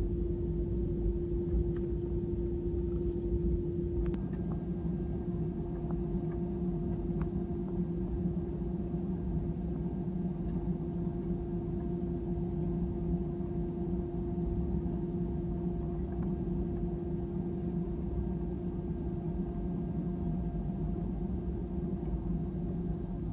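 Airliner cabin noise inside an Airbus A320: a steady low rumble with a steady hum, and a second, higher tone joining about four seconds in.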